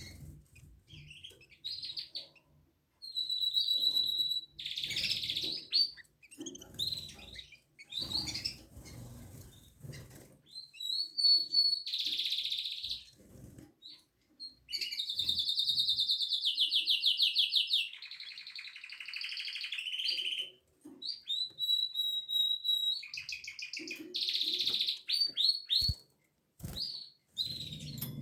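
Domestic canary singing: phrases of whistled notes and rapid trills, broken by short pauses. A single sharp knock comes near the end.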